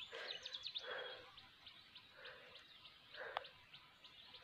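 Faint birdsong in scrub woodland: a short call repeats about once a second over a steady series of quick high chirps. A brief twittering trill comes just after the start.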